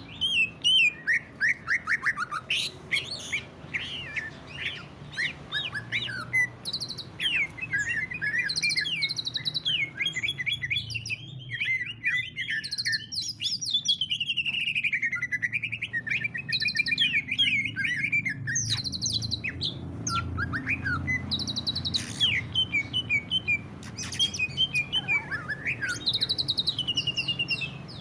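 Green leafbird (cucak ijo) singing a rapid, varied, nearly unbroken song of chirps, trills and sweeping whistles. This is the full, aggressive 'ngentrok' singing prized by keepers, over a low background hum.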